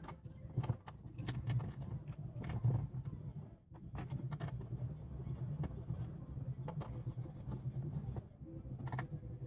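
Scattered metallic clicks and knocks of a diesel fuel filter housing being handled and refitted, over a low, steady rumble.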